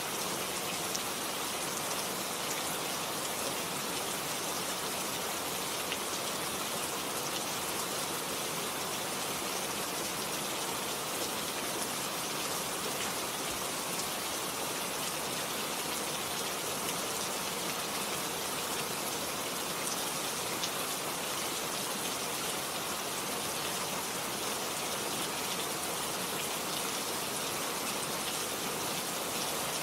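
Steady rain falling, an even hiss of drops with fine scattered patter of single drops, unchanging throughout.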